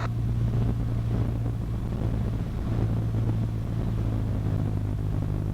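Cessna 152's Lycoming O-235 four-cylinder engine and propeller droning steadily in flight on final approach, with full flaps set at about 60 knots.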